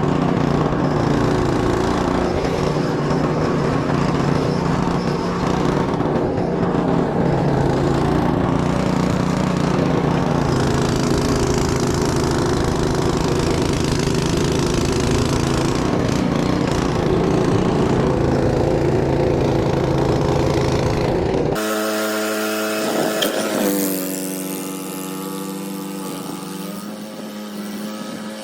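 Small gasoline snowblower engine running steadily under load. About three-quarters of the way through the sound cuts off abruptly, giving way to a quieter, steady pitched hum that briefly slides upward.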